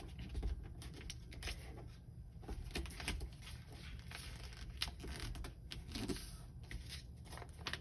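Sheet of paper being folded and creased by hand: faint, irregular rustling and crinkling as the second wing of a paper glider is folded over.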